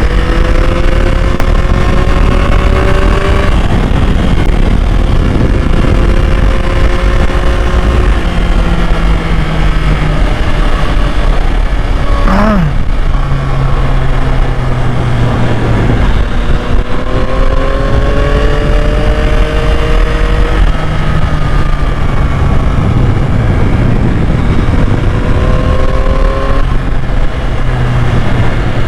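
2021 Yamaha MT-09's three-cylinder engine under way, its note climbing slowly and then dropping several times as it changes gear, with one quick sharp rev about twelve seconds in. Wind rumble runs underneath.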